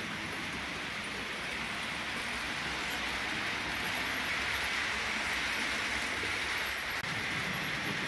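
Märklin H0 model train running on the layout's track, a steady whirring rattle of motor and wheels that swells slightly toward the middle.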